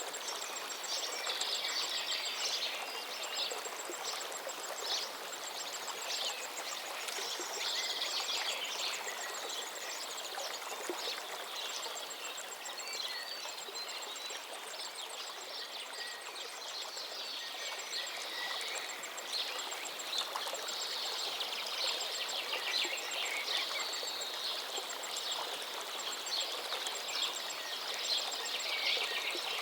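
River water running steadily with many songbirds chirping and trilling over it, including a fast high repeated ticking trill.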